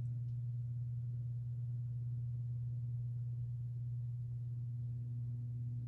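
SMC Emperor ceiling fan's motor running on its high speed with a steady low hum. The fan turns slowly even on high.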